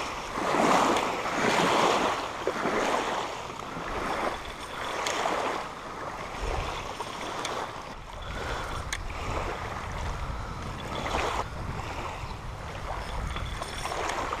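Water splashing and sloshing in irregular swells, loudest in the first few seconds, with a few sharp ticks. From about halfway in, wind rumbles on the microphone.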